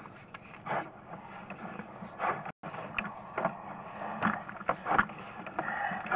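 Irregular knocks and rattles from a sewer inspection camera's push cable being handled and fed through a 3-inch cleanout, over a low steady hum.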